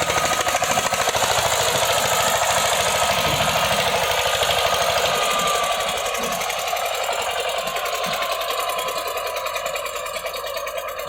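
Eicher 241 tractor's single-cylinder diesel engine running with a rapid, even knocking beat while pulling a trolley loaded with soil. It grows gradually fainter over the last few seconds.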